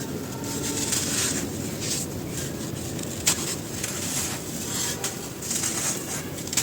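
Dry, dusty chalky cylinders being crushed and crumbled by hand: a run of crisp, crunchy bursts of crumbling with a sharp snap about three seconds in.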